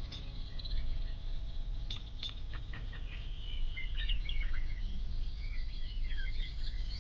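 Small birds chirping and twittering in quick, wavering high notes over a steady low rumble, with a few faint clicks about two seconds in.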